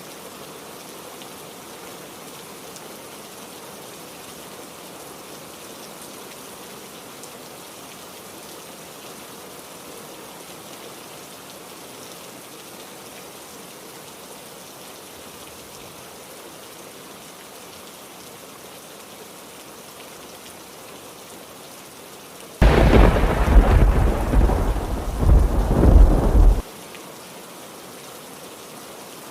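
Steady heavy rain, with a sudden loud clap of thunder about three-quarters of the way through that rumbles for about four seconds and then stops abruptly.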